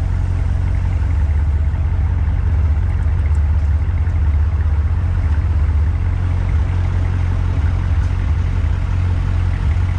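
Truck engine and exhaust running steadily, a loud deep drone with no revving.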